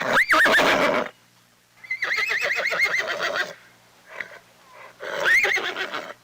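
Horse whinnying three times: a short neigh at the start, a longer quavering whinny about two seconds in, and another short one about five seconds in.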